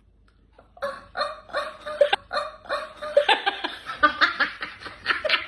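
A person making vocal sound effects, a quick run of short repeated pitched calls like an animal imitation, breaking into laughter from about three seconds in.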